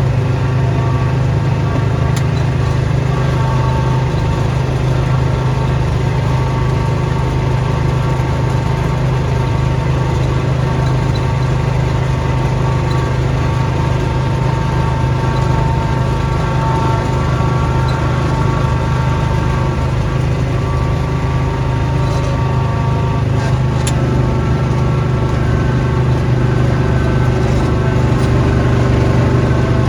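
Small gasoline engine of a snowblowing machine running steadily at a constant speed.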